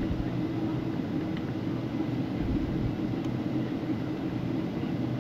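Steady low rumble and hum of a moving vehicle heard from inside, with no sudden events.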